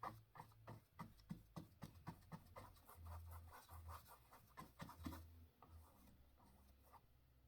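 Faint paintbrush strokes scratching across canvas, a quick run of short strokes that stops about five seconds in.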